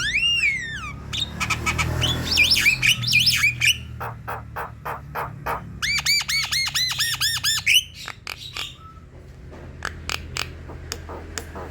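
Javan myna singing: a varied string of sharp clicks, squawks and whistled notes, opening with a falling whistle and including a quick run of about seven repeated arched notes around six seconds in. This is the active, full song that keepers play to coax silent mynas into singing.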